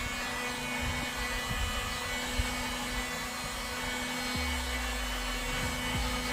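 Electric hot-air blower running steadily with a constant whine, warming a fresh coat of spray primer to speed its drying.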